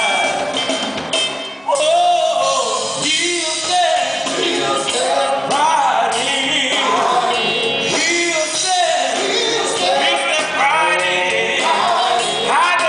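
Gospel group singing live with musical accompaniment, long held and bending vocal lines.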